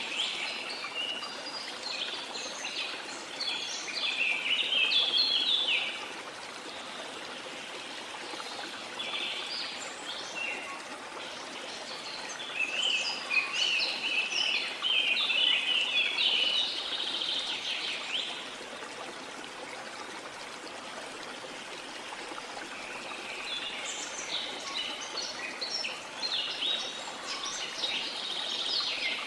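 Small birds chirping and twittering in quick bursts, in three spells: at the start, through the middle, and again near the end. Under them runs a steady wash of sea water.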